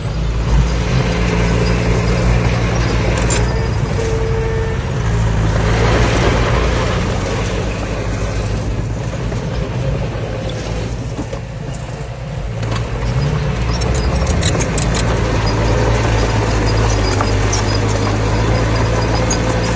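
Heavy diesel engine of earthmoving machinery, a bulldozer or dump truck, running steadily, easing off briefly about two-thirds through. Short clicks and rattles come in over it near the end.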